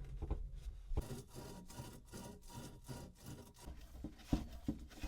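Rag rubbing and wiping drips off freshly connected pipe fittings, with scattered light clicks and knocks from handling.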